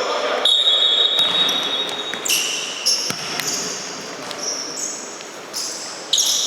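Futsal play on an indoor court: players' shoes squeak sharply on the floor at shifting pitches, with an occasional thud of the ball being kicked, echoing in a large hall.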